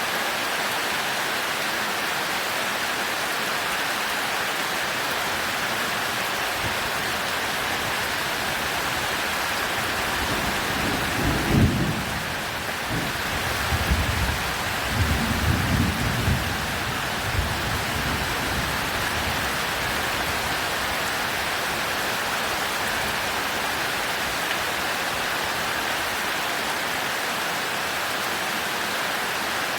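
Heavy rain falling steadily. About a third of the way in, a sharp thunderclap breaks and rolls on as rumbling thunder in several swells for about six seconds.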